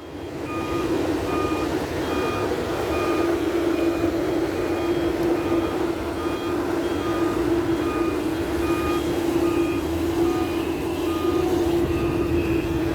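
Dump truck's reversing alarm beeping evenly, about three beeps every two seconds, over the steady running of its diesel engine: the truck is in reverse, backing up.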